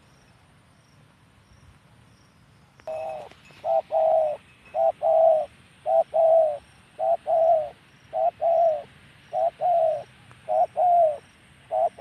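Spotted dove (tekukur) cooing: after about three seconds of quiet, a steady series of repeated low coos, roughly one a second, running on to the end.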